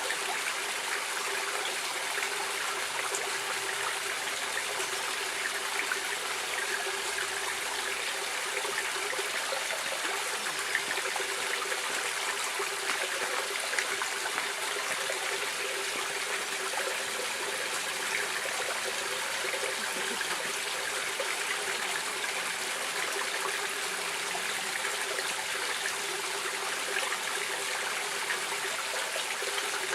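A stream running over rocks, a steady rushing and trickling of water without pauses.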